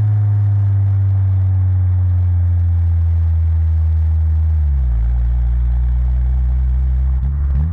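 Honda Civic Type R EP3's 2.0-litre four-cylinder running through a Fujitsubo RM-01A cat-back exhaust, a loud low drone. The note sinks slowly, drops sharply about five seconds in, then climbs quickly near the end as the revs rise again.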